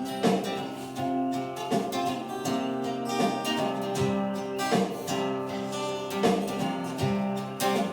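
Acoustic guitar strummed in a steady rhythm, chords ringing between strokes, in an instrumental gap of a song.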